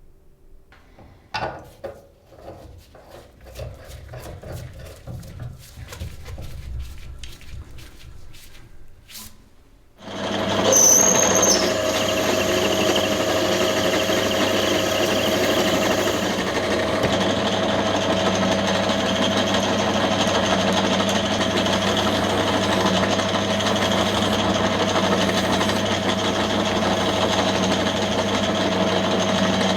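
Clicks and knocks of metal parts being handled. About ten seconds in, an electric power tool's motor starts and runs steadily at full speed.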